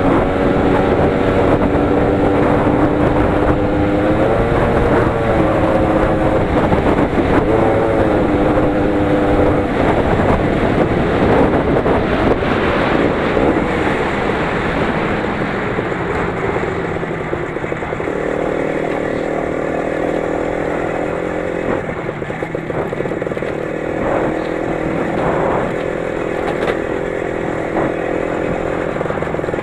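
A 20 hp Lider 3.221 motorcycle engine running under load while ridden over rough forest ground. The revs hold steady at first, dip briefly twice, then turn rougher and later settle again, with rumble and buffeting noise underneath.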